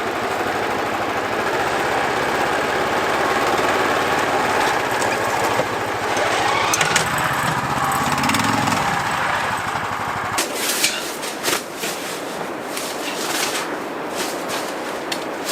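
Snowdog motorized snow machine's small engine running steadily, then shutting off about two-thirds of the way in. Scattered sharp clicks and gusty noise follow.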